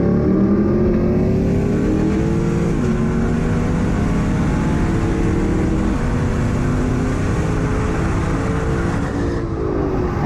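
V8 sports car engine at full throttle in a rolling-start race, its note climbing through the revs. It drops sharply on an upshift about three seconds in, climbs again, and falls away near the end as the throttle is lifted.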